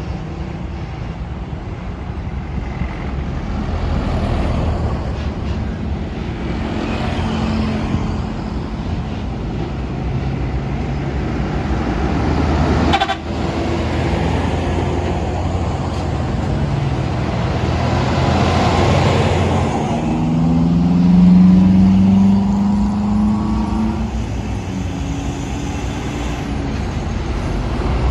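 Large trucks' engines running as they pass through a road junction, over a steady traffic rumble. A horn sounds for about three seconds, rising slightly in pitch, about twenty seconds in.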